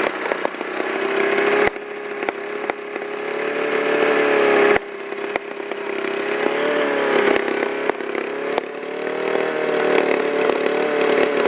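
Small lawn mower engine running hard at high revs, held at a steady pitch, with a few sharp cracks through it. The engine is being run to destruction.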